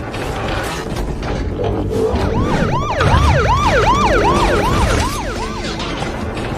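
Police siren in a fast yelp: each sweep jumps up and slides back down, about three a second. It starts a couple of seconds in and fades near the end, over a steady low rumble.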